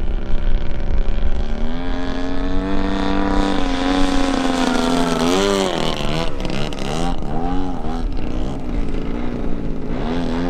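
Desert Aircraft DA-100 twin-cylinder two-stroke gas engine turning a large propeller on an RC Super Decathlon, running at high power while the plane hovers. Its pitch climbs about two seconds in, then surges up and down in quick throttle swings from about five seconds on.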